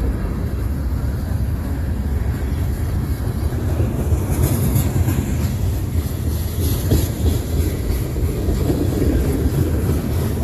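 Freight train cars rolling past with a steady low rumble and wheel clatter on the rails, with scattered high clicks and squeals from about four seconds in.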